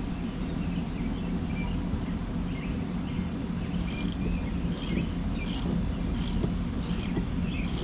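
Socket ratchet being worked in short back-strokes, a burst of ratchet clicking about every three-quarters of a second from about halfway through, six in all, as seat bolts are loosened. Under it is a steady low rumble, with faint bird chirps.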